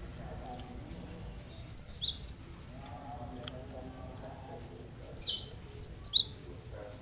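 Cinereous tit (gelatik batu) calling: two short bursts of sharp, high chirps, the second about three and a half seconds after the first.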